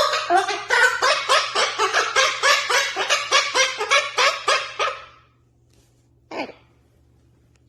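Cockatiel singing: a rapid run of short chattering chirps, several a second, for about five seconds, then a pause and one short call.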